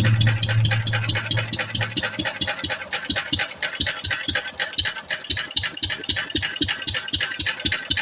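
1.5 hp McCormick M stationary gas engine running just after a cold start, beating out a regular clatter of about four to five strokes a second. A steady low hum in the first two seconds stops about two seconds in.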